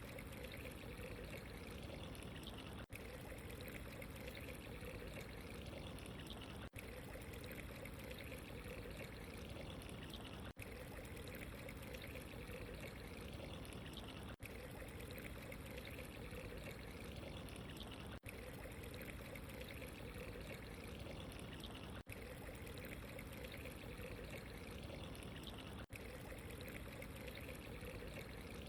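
Steady running water, a soft pouring trickle, with a very short dip in level about every four seconds.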